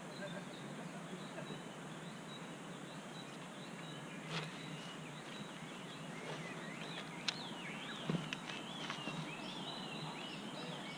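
Small birds chirping over a steady outdoor background hiss, the calls growing busier in the second half, with a few sharp snaps in the middle.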